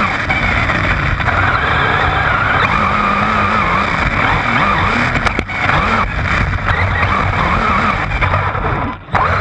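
A truck driving: its engine running under loud road and wind noise picked up by a body-mounted camera, with a high wavering squeal over it. The sound dips briefly about nine seconds in.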